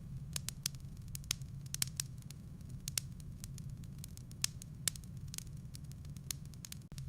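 Firewood burning in a fireplace: irregular sharp crackles and pops, several a second, over a low steady rumble of the fire.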